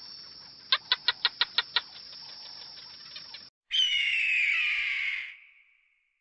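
A quick run of about seven sharp chirps within a second, over faint steady background noise. Then, after a cut, a loud, slowly falling scream from a bird of prey that lasts nearly two seconds and fades away.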